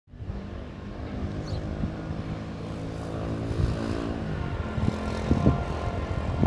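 EMD diesel-electric freight locomotive's engine running with a steady drone, slowly growing louder as the train approaches.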